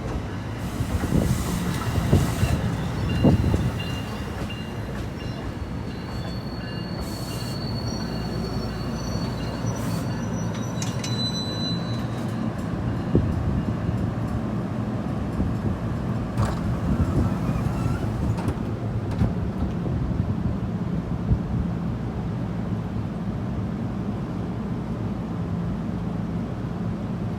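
New Jersey Transit electric commuter train at the station with a steady low hum, a few knocks in the first few seconds, and thin high-pitched wheel squeals about six to twelve seconds in.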